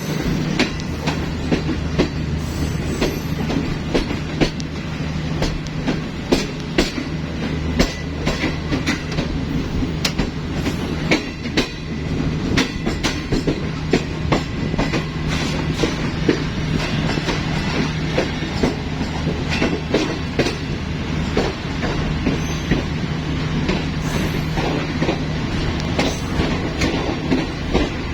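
Green Line Express passenger train running on the track: wheels clack irregularly over rail joints above a steady low drone.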